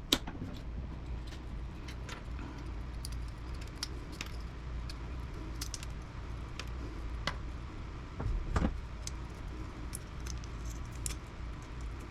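Small metal and plastic parts clicking and clinking as a relay is pried apart with hand tools to get at its silver contacts: scattered light clicks, with one louder clunk past the middle, over a steady low hum.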